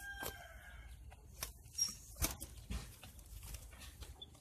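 A rooster's crow trails off within the first second. Then come a few scattered knocks and taps of a zebra dove being handled and put into a birdcage.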